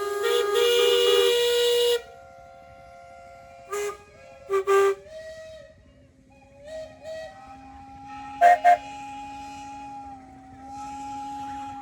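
Steam whistles blowing the noon whistle. A loud chord of several notes stops abruptly about two seconds in, then fainter whistles at different pitches keep sounding, with a few short loud toots.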